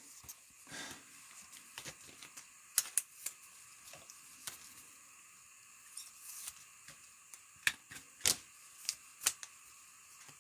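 Trading cards being handled and sorted: irregular faint clicks and flicks of card stock, with a few sharper snaps about three seconds in and between eight and nine seconds.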